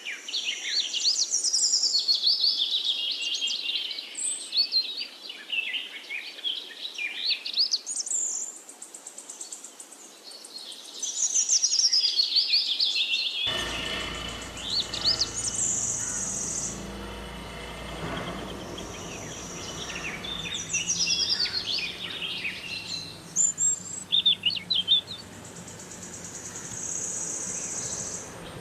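Several birds chirping and twittering continuously, with fast trills and some held high whistles about a second long. A low background hum comes in about halfway through.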